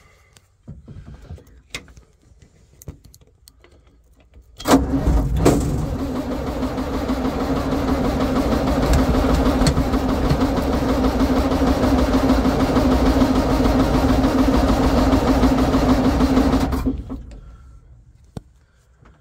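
A 1959 Kenworth truck's starter engages with a sharp clunk and cranks the engine for about twelve seconds. It gives a loud, steady drone with a constant hum, then winds down. The owner afterwards suspects dead batteries.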